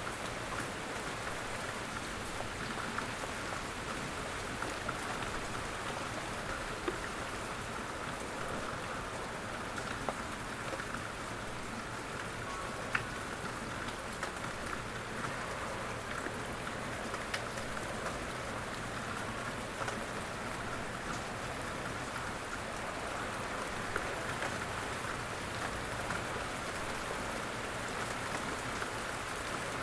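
Steady rain falling on a surface, a continuous even patter with scattered individual drop ticks.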